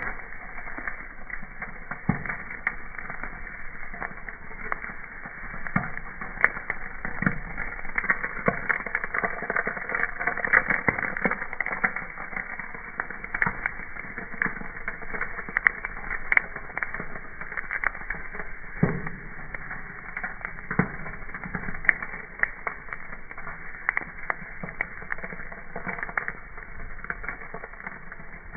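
Wood campfire crackling, with irregular sharp snaps and pops over a steady hiss.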